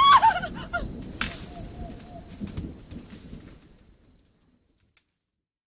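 A harsh, bird-like call at the start, followed by fluttering noise that fades out over about four seconds.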